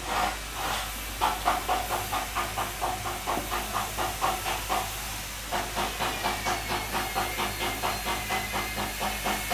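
Rhythmic back-and-forth scraping strokes, about four a second, with a short break a little past halfway.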